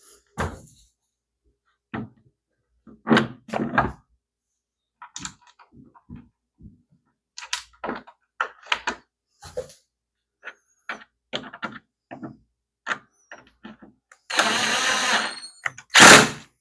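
Scattered clicks and knocks of parts being handled, then a power drill running with a steady whirr for about two seconds near the end, followed by a short, louder burst.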